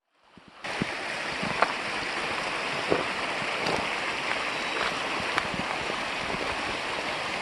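Creek water running, a steady rushing hiss with a few faint ticks, cutting in suddenly about half a second in.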